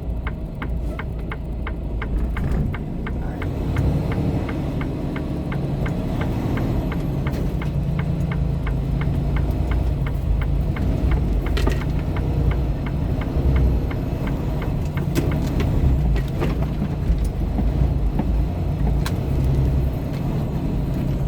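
Semi-truck engine running, heard from inside the cab, with a fast, regular ticking over roughly the first ten seconds.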